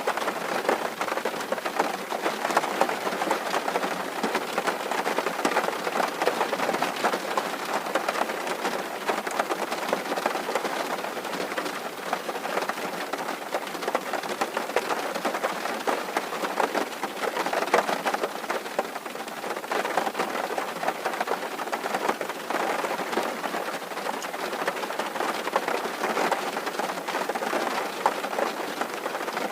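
Steady rain drumming on a tin roof, a dense patter of many drops.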